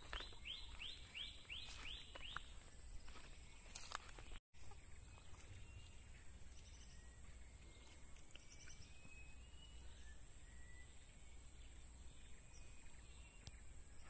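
A bird calling a quick run of about six sharp, downward-sweeping notes near the start, then only faint scattered short whistles. A steady thin high-pitched drone runs underneath throughout.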